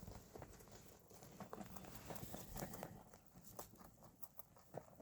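Rabbits eating fresh greens: faint, irregular crunching and tearing clicks.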